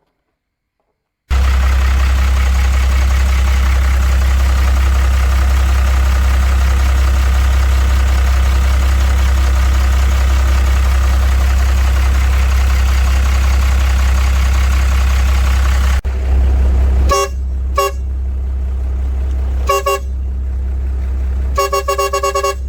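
A truck engine running steadily with a deep hum, then the horn sounding in short toots: a few separate honks, then a rapid string of quick beeps near the end.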